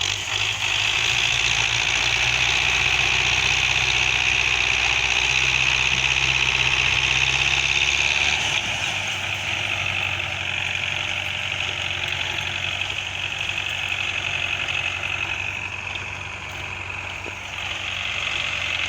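Tractor engine running steadily. About eight seconds in, its low drone shifts lower and the sound gets somewhat quieter.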